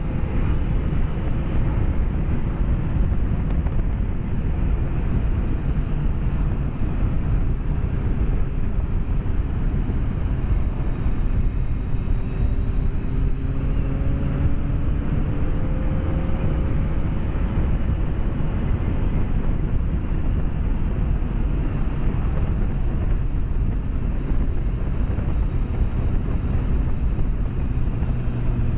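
Inline-four engine of a BMW K1200S motorcycle under way, heard through heavy wind rush on a helmet microphone. Its faint engine note rises and falls gently with speed, rising most clearly about midway.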